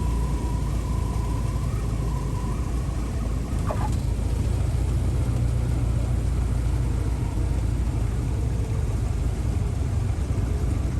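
Steady drone of a 1975 Citabria 7KCAB's 150-horsepower four-cylinder engine and propeller running.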